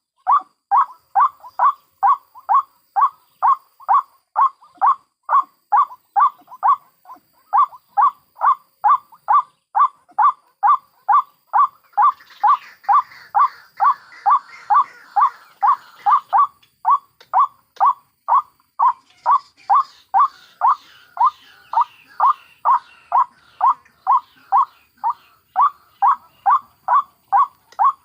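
White-breasted waterhen (ruak-ruak) calling a steady, monotonous, repeated 'kwak' note about twice a second. From about twelve seconds in, and again around twenty seconds, a fainter, higher chattering joins it.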